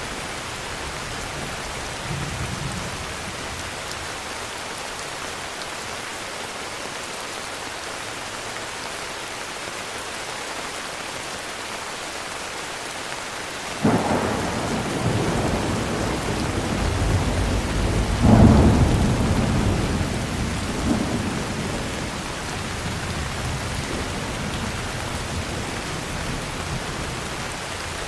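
Heavy rain falling steadily, with a thunderclap breaking in suddenly about halfway through and rumbling on, loudest a few seconds later, before rolling away under the rain.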